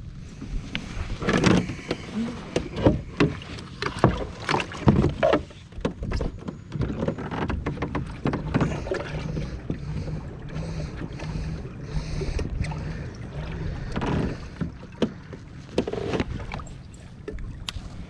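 Irregular knocks, clatter and water noises from a fishing kayak on the water, loudest in the first few seconds and again near the end, over a steady low rumble.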